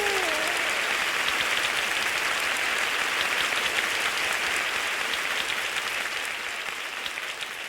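Recorded audience applause, many hands clapping, slowly fading out as a music track ends.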